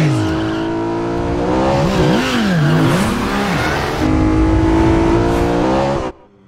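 Car engine revving hard, its pitch swinging up and down as it accelerates and shifts, in a film chase soundtrack. The engine noise cuts off abruptly about six seconds in.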